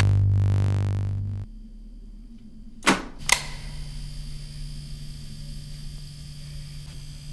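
A loud rushing noise over a low hum fades and cuts off suddenly about a second and a half in. Then come two sharp clicks about half a second apart, the second with a short ring, and after them a faint steady low hum.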